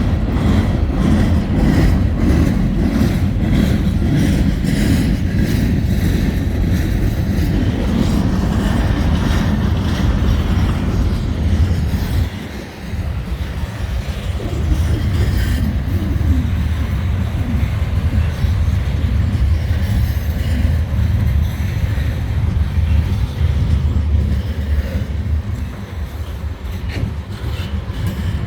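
Long freight train rolling past, a steady rumble of wheels on rail, with a brief dip in loudness about twelve seconds in.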